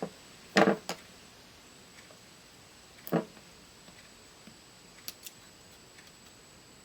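Clicks and knocks from handling small parts of an 8-track player during repair: a sharp double knock just over half a second in, another knock around three seconds, and two faint ticks around five seconds, over a faint steady hiss.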